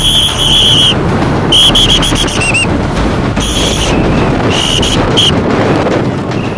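A shrill whistle blown in about four short blasts, some with a trill, over a constant heavy noise of gusty wind on the microphone.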